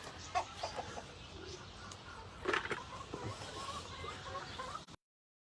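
Silkie chickens clucking softly: a scatter of short calls, one louder about two and a half seconds in. The audio drops out completely near the end.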